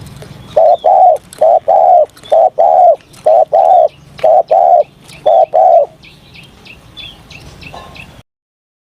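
Spotted dove cooing: a quick run of six paired coos, each a short note followed by a longer one, with small birds chirping high in the background. From about six seconds in only the chirps go on, and then the sound cuts out abruptly.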